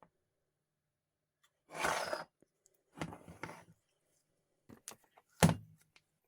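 Handling noises: two short scraping rustles, a few small clicks, then one solid thunk, like an object set down hard, about five seconds in.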